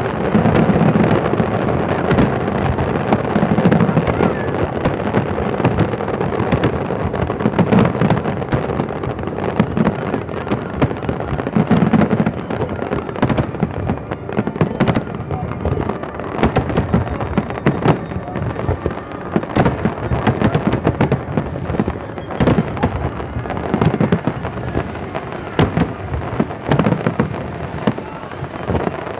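Fireworks display: a dense run of cracks and crackling pops throughout, with deeper booms from shell bursts every few seconds in the first half.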